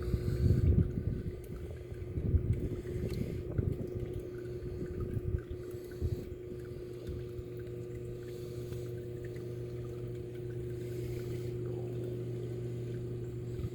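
A steady machine hum holding one low pitch throughout, with uneven low rumbling and knocks during the first six seconds or so.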